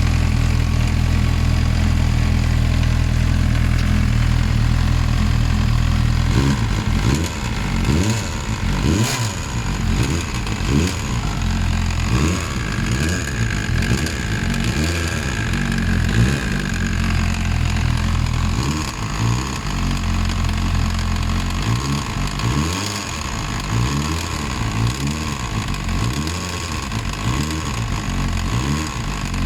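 Vehicle engine idling steadily, then revved in a long series of quick throttle blips, each rising and falling in pitch, before settling back to a steady idle near the end.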